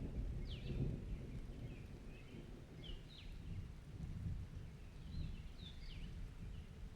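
Playground swing creaking as it sways, with short high squeaks coming back every two to three seconds, over a low rumble of distant thunder.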